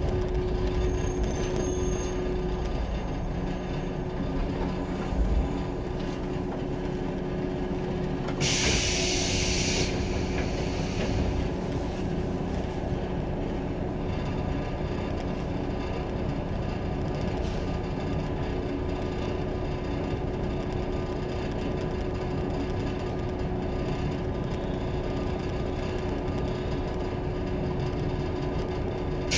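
JR 115-series electric multiple unit heard from inside the car while running: steady wheel and motor noise with a constant low hum. A brief hiss comes about eight and a half seconds in.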